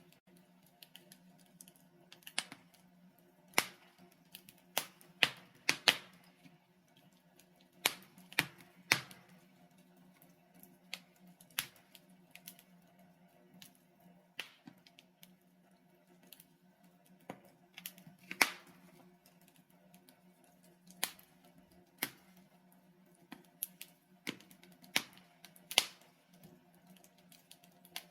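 Wood logs burning in a fireplace, crackling with irregular sharp pops and snaps, about one or two a second with uneven gaps, over a faint steady low hum.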